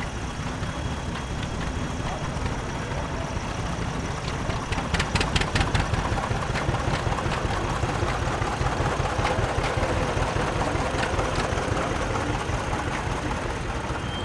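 Antique tractor engines running slowly with a steady low rumble. A quick series of sharp clicks about five seconds in is the loudest part.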